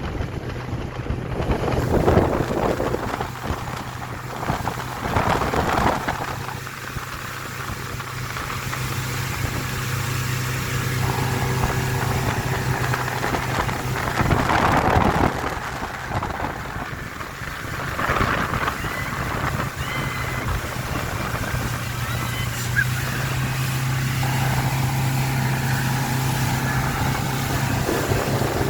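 A small boat motor running at a steady hum that fades for a few seconds mid-way and then returns, with several louder gusts of wind or water noise.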